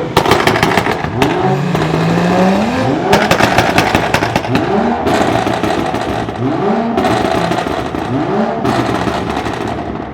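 A car engine revved hard several times, its pitch rising with each rev. Between the revs come stretches of rapid crackling and popping.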